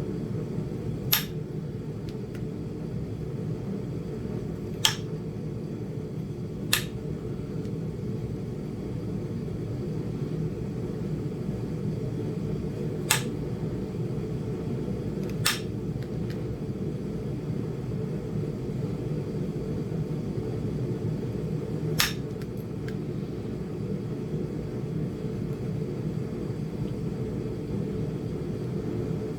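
Six sharp, isolated clicks at irregular intervals, as flakes are knocked off a small Flint Ridge chert biface during knapping. A steady low hum runs underneath.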